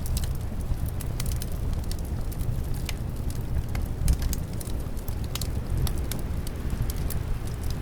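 Fireplace fire crackling, with frequent irregular sharp pops over a steady low rumble of wind.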